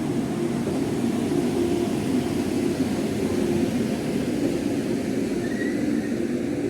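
Vande Bharat Express electric train running on departure: a steady, loud rumble of wheels and traction equipment, with no horn sounding.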